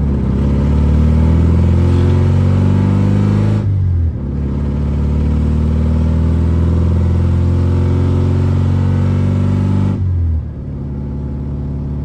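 BMW E36's engine running loud while driving, its note breaking off and dropping in level twice, about four seconds in and about ten seconds in.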